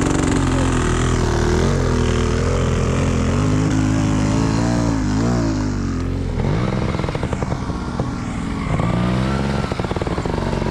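Dirt bike engine running loud, its pitch rising and falling again and again as the throttle is worked.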